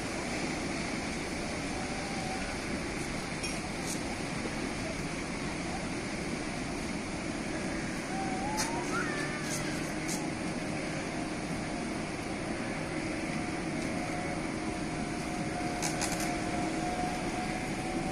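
A small fishing boat's engine running steadily, under a constant rush of wind and sea.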